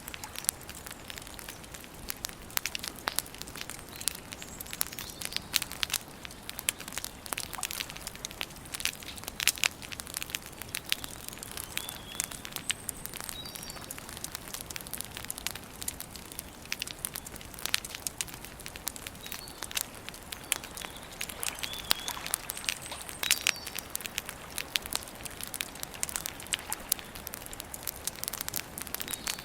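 Wood campfire burning with continuous, irregular crackling and sharper pops. A few faint bird chirps come through now and then.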